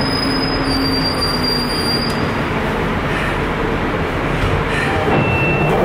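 London Underground train running, heard from inside the carriage: a loud, steady rumble of wheels on track, with a thin, high wheel squeal in the first two seconds and another shorter squeal near the end.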